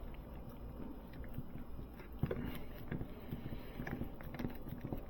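Faint, irregular clicks and scrapes of screws being driven through a Nest thermostat back plate into the wall, with no steady power-tool whine.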